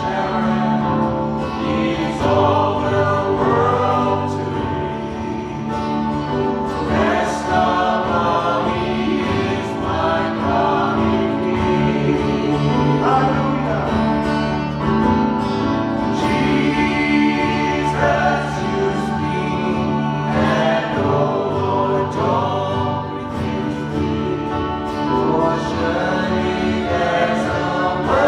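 Congregational worship song: a choir or group of singers with instrumental accompaniment, playing continuously.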